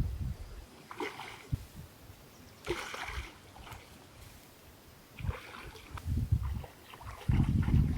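Water splashing in several short bursts, then a loud low rumble near the end.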